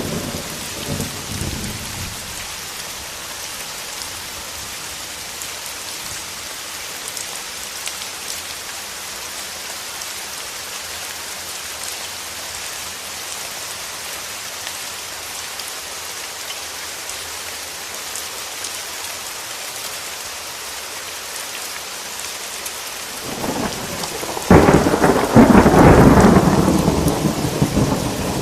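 Steady rain with thunder. A low rumble dies away in the first couple of seconds. About 23 seconds in, thunder builds, breaks loudly a moment later and rumbles on, slowly fading.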